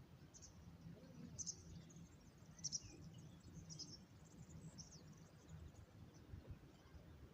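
Small birds chirping faintly, short high chirps about once a second, over a low steady rumble.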